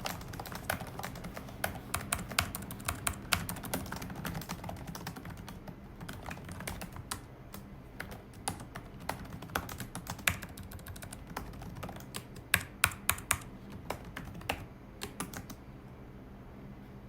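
Typing on a computer keyboard: quick, irregular key clicks with a few louder strokes, stopping shortly before the end, over a steady low hum.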